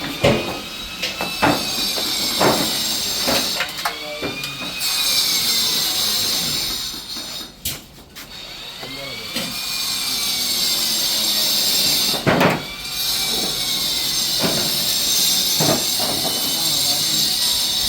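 A power tool running in spells, with a loud high hiss and a whine that rises and falls in pitch, and a few sharp knocks between the spells.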